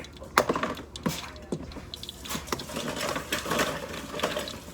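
Kitchen clatter: utensils and dishes clinking and knocking several separate times, with a hiss running through the middle stretch.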